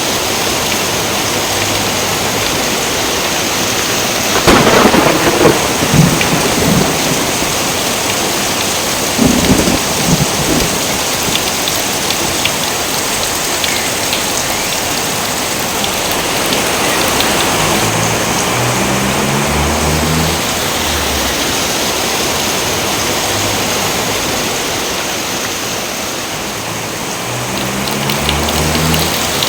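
Steady heavy rain, with a loud clap of thunder about four and a half seconds in and a smaller one about nine seconds in.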